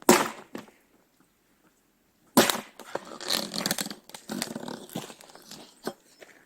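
Axe striking a firewood log twice, once at the start and again about two and a half seconds in. After the second blow comes a few seconds of wood cracking and rustling, and a light knock near the end.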